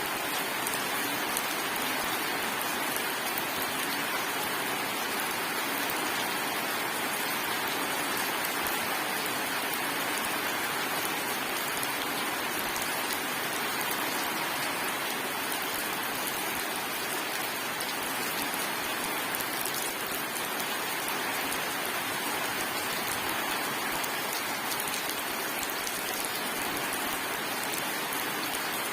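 Steady, heavy rain falling on surfaces, an even hiss of many drops without thunder.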